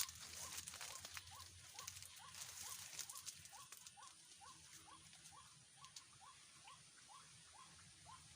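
Faint animal call, a short rising chirp repeated evenly about three times a second. Over the first few seconds it sits under a light crackling rustle, which opens with a sharp click.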